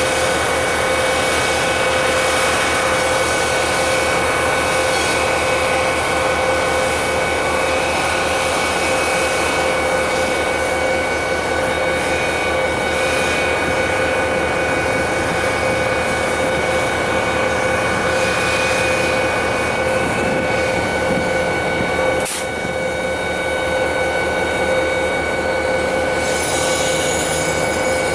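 Diesel freight locomotive running close by on the yard track: a steady engine sound with a high steady whine over it. A single sharp click comes about two-thirds of the way through, and higher-pitched tones join near the end.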